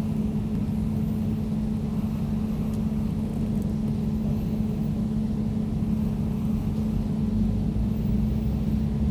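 Air conditioner running: a steady low hum with one droning tone held throughout.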